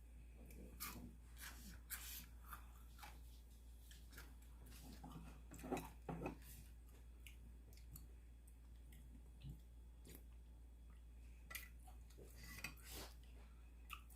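Faint eating sounds: scattered light clicks of utensils against a noodle bowl and chewing, with a louder pair of clicks about six seconds in.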